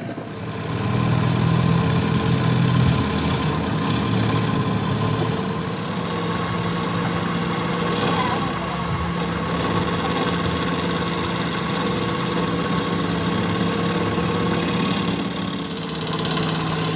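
A motor running steadily with a constant hum, changing pitch slightly in the first few seconds and then holding steady.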